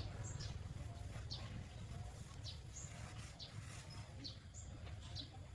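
Small birds chirping: about a dozen short, high, quick chirps at irregular intervals, over a faint low rumble.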